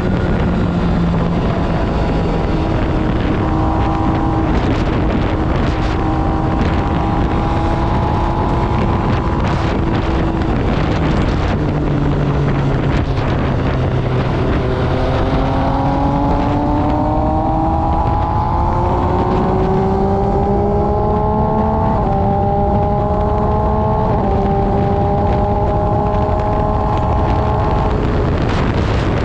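MV Agusta Brutale 800RR's three-cylinder engine through an SC Project exhaust, ridden on the road: holding revs, easing off, then accelerating from about halfway with the revs climbing and dropping sharply at a few upshifts before settling. Wind rushes over the microphone throughout.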